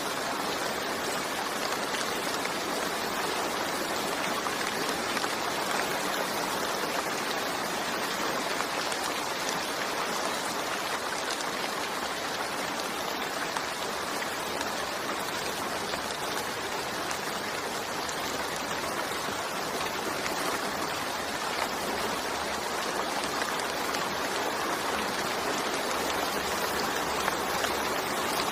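Steady rain falling: an even, unbroken hiss of many drops, with no thunder or single louder strikes.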